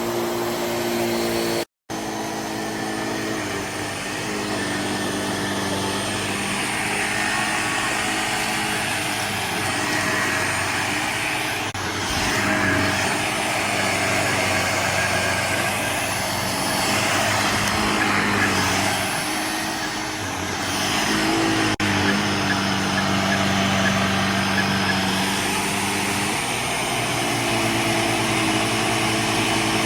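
Jimmy JV35 handheld mattress vacuum cleaner running steadily, a motor hum with a hiss of air, its note shifting slightly now and then. The sound cuts out briefly about two seconds in.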